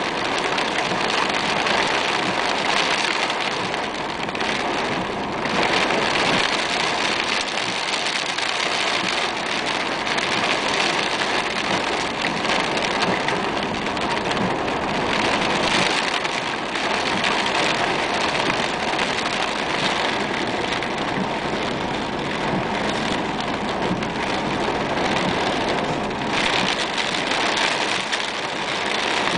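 Heavy rain falling steadily on a car's roof and windows, heard from inside the car.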